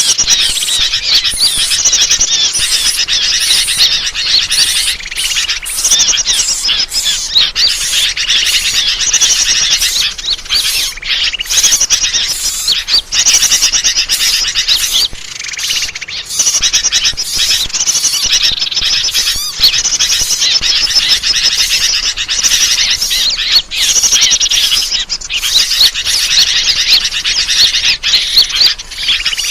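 Dense, loud chorus of small birds chirping and calling rapidly and without a break: a bird-lure (pikat) recording, played to draw wild birds in.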